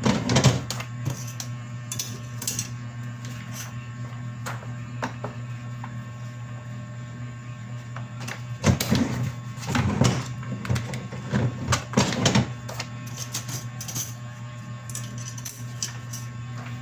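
A steady machine hum with irregular clicks and short clattering bursts, busiest around the middle.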